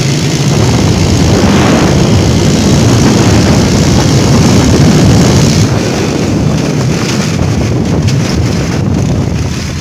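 Motorcycle running at road speed with wind rushing over the microphone: a loud, steady noise with no breaks.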